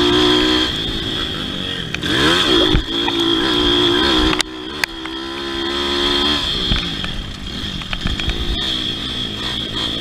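Pit bike engine running hard on a motocross track, its pitch repeatedly rising and falling as the throttle is worked, with a quick rev up and back down about two seconds in.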